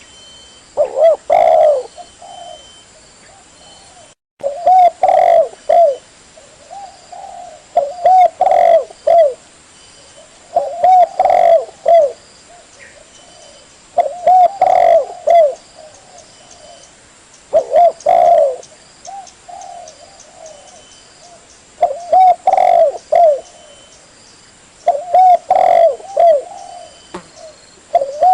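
Spotted dove (tekukur) cooing: a short phrase of several low, arched coos, repeated about every three seconds. This is a clean call recording used to lure doves. There is a brief dropout in the sound just after the first phrase.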